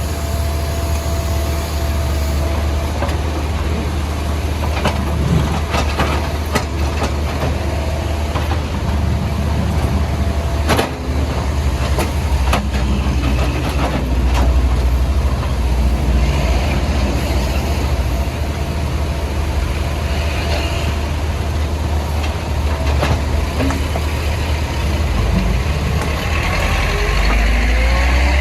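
Diesel engine of a CAT 462F backhoe loader running steadily under load, with scattered sharp knocks and cracks of road surface being broken up.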